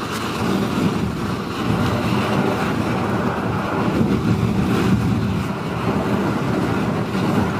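Foundry furnace burner running with a steady, even rushing noise, heaviest in the low range.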